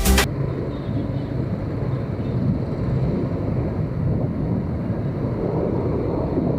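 Motorcycle running on the road, a steady low engine rumble mixed with wind noise on the microphone. A music track cuts off right at the start.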